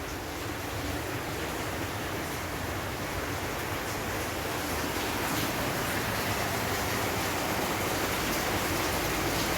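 Heavy rain falling, a steady hiss that slowly grows a little louder.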